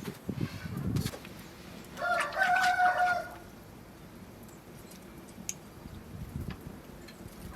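A rooster crows once, a held call of about a second that starts roughly two seconds in.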